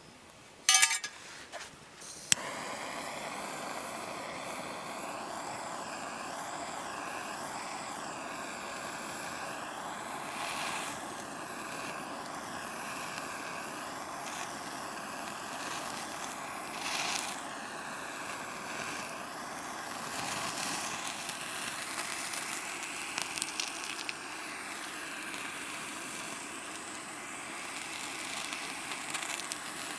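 Wood campfire burning with a steady hiss and occasional louder crackles, starting suddenly a couple of seconds in after a few sharp clicks.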